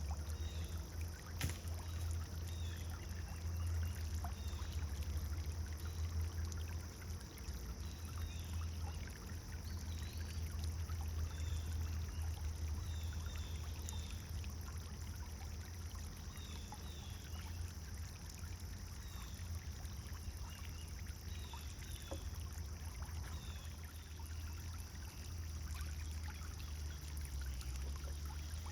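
Pond fountain splashing steadily over a low rumble, with small birds chirping briefly over and over in the background.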